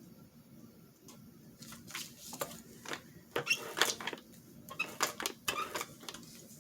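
Paper cut-outs being handled and shuffled: a run of short, dry rustles and crinkles that starts about a second and a half in.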